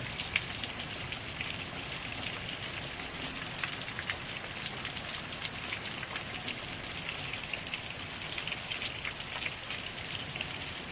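Steady heavy rain falling, a constant hiss with many sharp individual drop ticks scattered through it.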